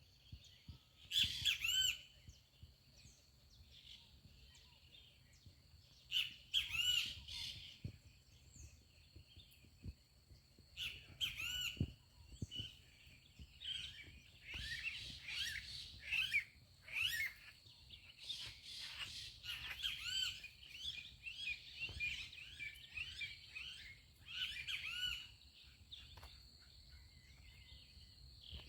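Birds singing outdoors: bursts of quick, repeated arching chirps every few seconds, busiest in the second half, over a faint, steady, thin high tone.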